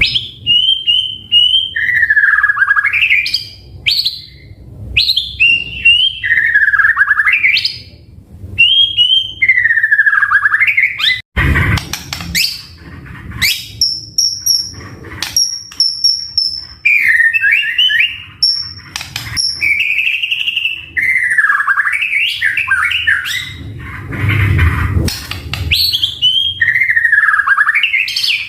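White-rumped shama (murai batu) in full song: loud, varied whistled phrases of swooping notes and fast trills, separated by short pauses, with a brief break about eleven seconds in.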